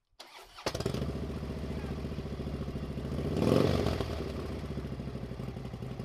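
Motorcycle engines running, with one getting louder as it passes close about three and a half seconds in.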